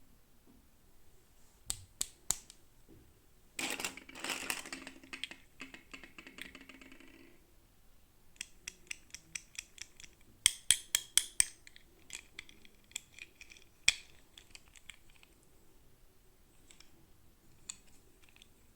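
Small plastic toy pieces and packaging being handled: sharp clicks and taps, some in quick runs, with a rasping stretch about four seconds in that lasts about three seconds.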